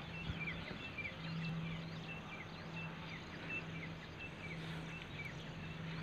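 Birds chirping in short, repeated high notes, a few each second, some sliding down in pitch, over a faint steady low hum and open-air background noise.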